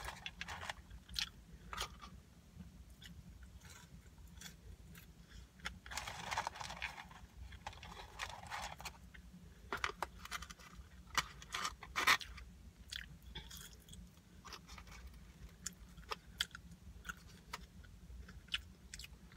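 A person chewing and biting fast food close to the microphone: soft crunchy mouth sounds with many small sharp clicks scattered throughout, and a fuller stretch of chewing about six to nine seconds in.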